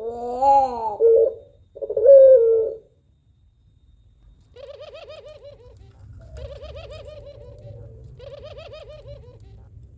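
White puter pelung (ringneck dove) cooing: two loud, drawn-out coos in the first three seconds, the first rising then falling. After a pause come three quieter, quavering coos.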